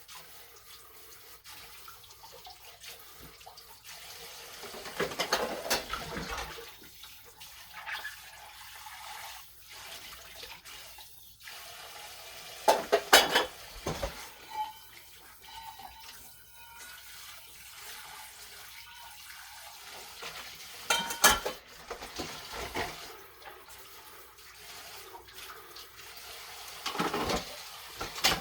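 Tap water running into a kitchen sink during washing up, with dishes knocking and clattering against each other now and then.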